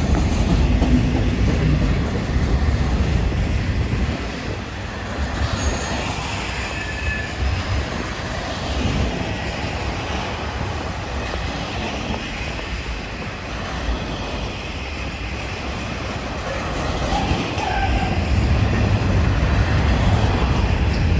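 Union Pacific freight train cars rolling past, a steady heavy rumble of wheels on rails with some faint wheel squeal in the middle.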